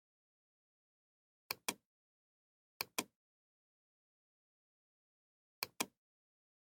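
Computer mouse button clicking: three quick pairs of sharp clicks, about a second and a half in, near three seconds, and near the end, with dead silence between.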